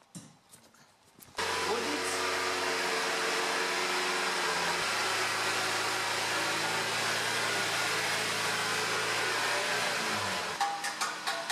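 Mazda MX-5's four-cylinder engine held at steady raised revs, around the 2600 rpm where it makes a strange loud noise, later traced to the middle silencer. The sound starts suddenly about a second and a half in, steps up slightly in pitch around five seconds in, and drops away near the end.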